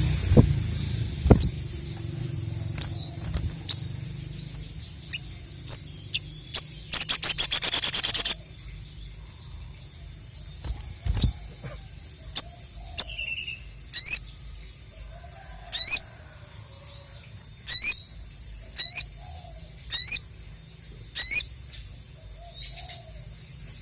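Sogok ontong (sogon) songbird singing: scattered high chirps, then a loud rapid trill lasting just over a second, then a string of sharp, very high notes, each sweeping downward, about one every second or two. A couple of low thumps sound in between.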